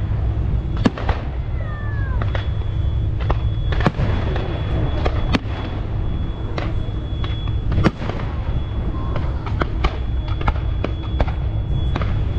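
Fireworks display: aerial shells bursting in a run of sharp bangs and cracks at irregular intervals, sometimes several a second, over a steady low rumble.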